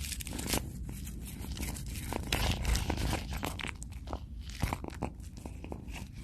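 Crisp, irregular crunching and clicking, as of something crunchy being chewed close to the microphone.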